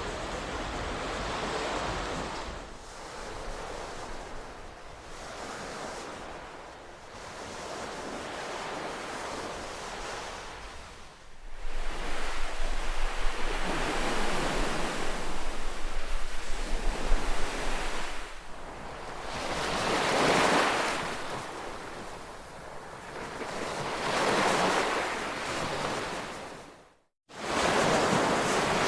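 Ocean surf: waves washing in and drawing back in slow swells. A louder stretch with a deep low rumble runs from about 11 to 18 seconds in. Near the end the sound cuts out completely for a split second, then comes back.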